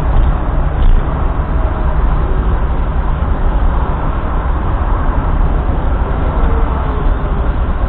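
Steady low rumble of a car driving: engine and road noise running evenly, without change.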